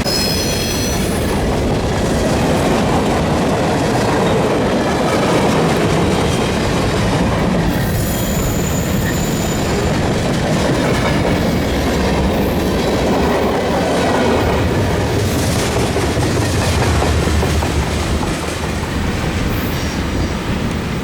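Freight train cars rolling past at speed, the wheels clacking steadily over the rail joints, with brief high-pitched wheel squeals near the start and again about eight seconds in.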